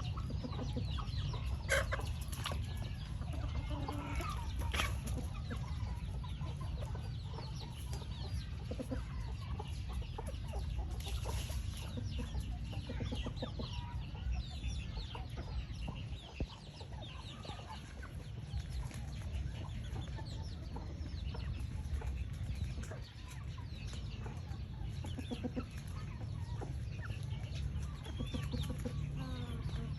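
A flock of chickens clucking, many short calls overlapping throughout, over a steady low rumble.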